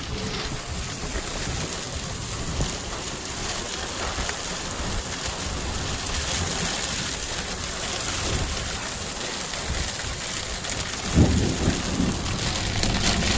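Heavy rain pouring steadily, with uneven low rumbling underneath and a louder low rumble about eleven seconds in.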